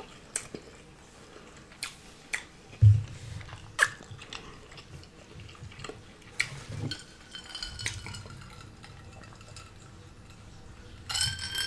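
Close-miked chewing and mouth sounds of a person eating, with scattered sharp clicks of a utensil against a plate, and a drink from a bottle near the end.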